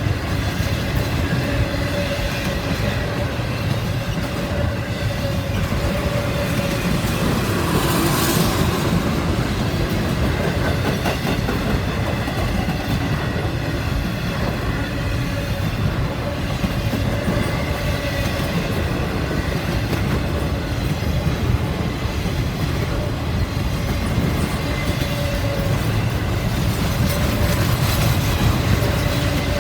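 A train rolling past: a steady rumble of steel wheels on the rails, with a brief hiss about eight seconds in.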